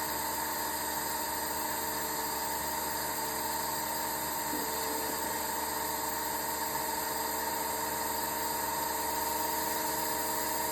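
Desktop model turbofan jet engine running steadily at speed after ignition, a steady whine of several fixed tones over an even hiss.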